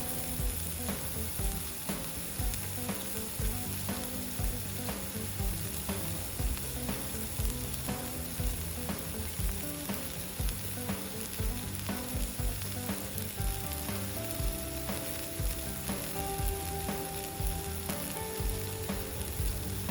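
Meat sizzling and frying on an iron griddle plate.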